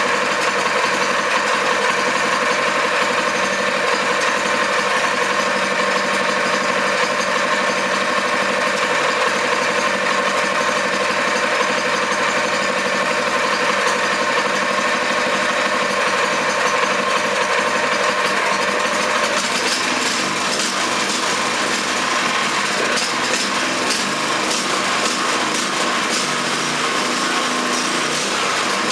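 Freshly rebuilt Kawasaki FG 200G small engine running steadily on its first start-up. About two-thirds of the way through its sound changes, with more rattling and clicking on top.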